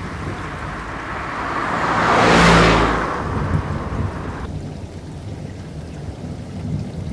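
Steady rain, with a rushing noise that swells to a peak about two and a half seconds in and then fades. About four and a half seconds in, the hiss of the rain abruptly thins.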